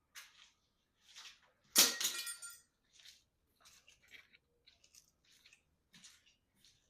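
Metal garage door hardware being handled: one sharp metallic clank about two seconds in that rings briefly, amid light clinks and rattles.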